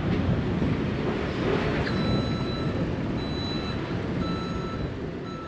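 Train rumbling steadily alongside the platform, easing off near the end. From about two seconds in, a high beeping tone sounds on and off.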